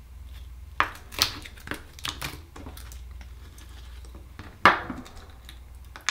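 Hard clicks and knocks of oyster shells and small tools being handled on a work surface: a handful of sharp taps in the first half, then a louder knock about three-quarters of the way through.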